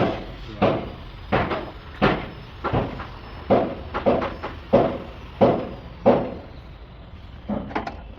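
Repeated sharp knocks, about one every two-thirds of a second, each with a short ringing tail; after a pause near the end come two quicker ones.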